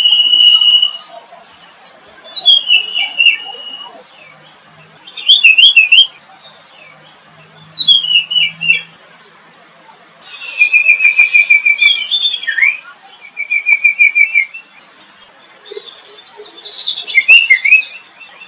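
Songbirds singing: about seven short, high phrases of chirps and quick trills, a few seconds apart.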